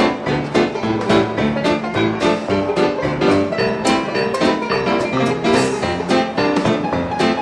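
A 1920s-style jazz dance orchestra playing an instrumental number with a steady, bouncing beat.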